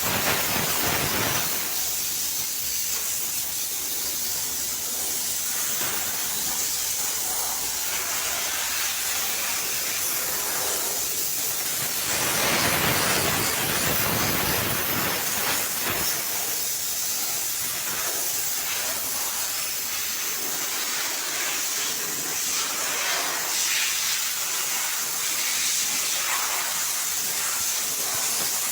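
Steam cleaner's jet hissing continuously as it sprays an engine. It swells fuller and louder at the start, about twelve seconds in, and again in spells near the end.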